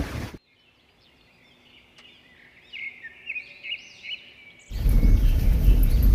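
Small birds chirping in a run of short rising-and-falling calls in a quiet spell. A loud rushing noise cuts off abruptly just before the calls, and another loud rushing noise with a low rumble comes in suddenly near the end.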